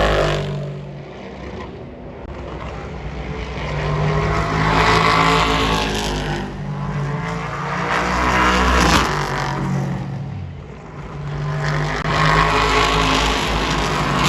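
Race cars passing at speed one after another, each engine note rising as it nears and falling away as it goes by, with the sharpest pass about nine seconds in.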